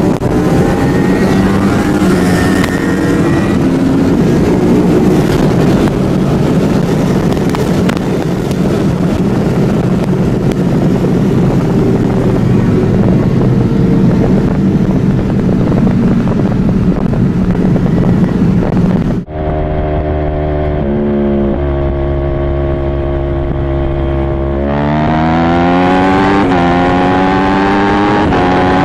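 Inside the cabin of a turbocharged 3.3-litre V6 Toyota Camry at full throttle at highway speed: the engine note climbs slowly under heavy wind and road noise. After a sudden cut, a liter-class inline-four sport bike's engine is heard from on the bike, holding steady and then revving up with a rising pitch from about 25 s on.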